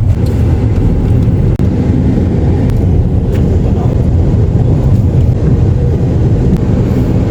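Steady, loud low rumble of a vehicle in motion, heard from on board, with a brief dip about a second and a half in.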